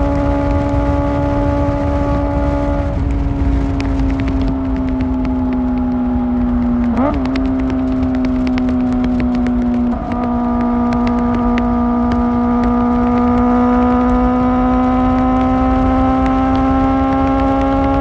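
Kawasaki ZX-4R's inline-four engine through an Akrapovic exhaust, running at steady high revs while riding. Its pitch steps down at a gear change about three seconds in and again with a brief dip around ten seconds in, then slowly rises as the bike accelerates, over steady wind rumble.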